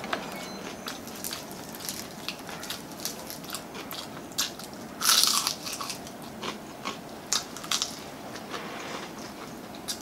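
A person chewing and biting into crispy fried chicken, with a steady run of crunches. One loud crunchy bite into the fried skin comes about five seconds in.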